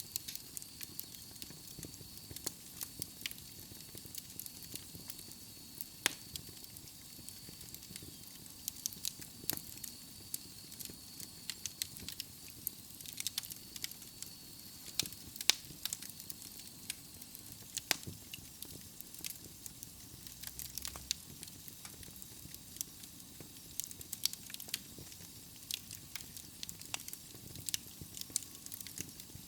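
Wood fire burning in a fireplace: logs crackling and popping in frequent, irregular sharp snaps over a soft steady hiss. A faint high whistle runs under it and fades out about halfway through.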